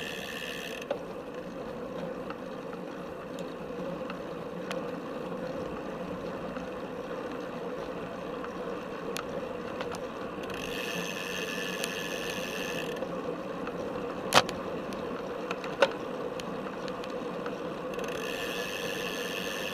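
Felt F75 road bike rolling along a paved path, heard from its own top tube: steady tyre and drivetrain noise with small frame rattles, and a higher buzzing that comes and goes. Two sharp clicks stand out about a second and a half apart, a little past two-thirds of the way through.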